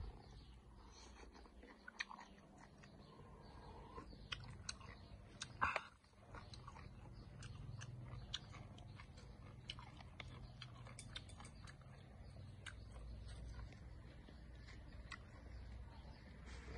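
Faint close-up chewing and mouth sounds of someone eating grilled snail meat, with scattered small clicks as a bamboo skewer picks at the snail shells.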